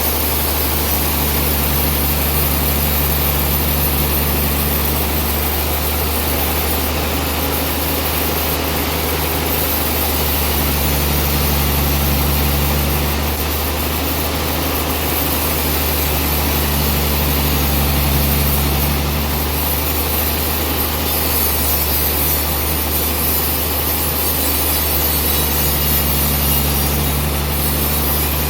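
Sawmill blade cutting through a large trembesi (rain tree) log, a steady noise over the constant low drone of the mill's engine. A second low tone comes and goes every few seconds as the cut goes on.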